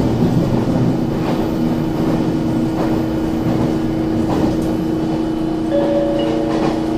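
Electric commuter train running, heard from inside the carriage: a steady rumble of wheels on rail under a steady motor hum, with a few faint clicks. A second, higher tone joins near the end.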